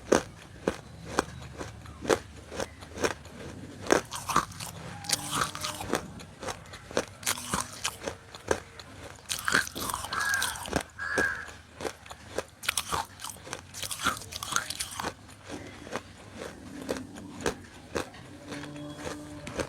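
Close-up crisp crunching of roasted nakumatt being bitten and chewed, a dense run of sharp, irregular crunches.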